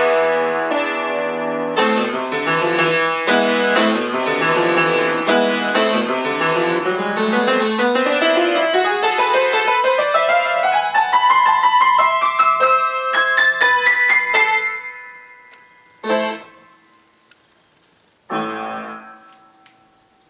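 Solo piano playing fast, dense passages that climb in a long rising run and then die away. Two separate closing chords follow, the second about two seconds after the first, and it rings out.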